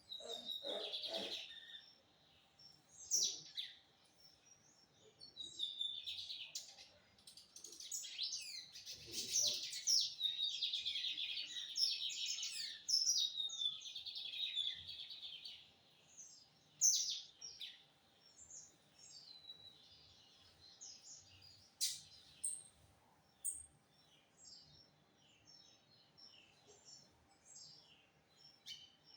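Lined seedeater (bigodinho) singing: a rapid, high twittering song in phrases, with one long unbroken run of about ten seconds in the middle, then scattered short chirps.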